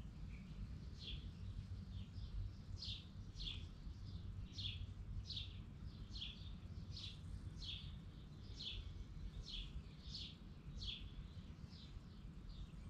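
A bird chirping over and over, short falling chirps about twice a second, over a steady low hum.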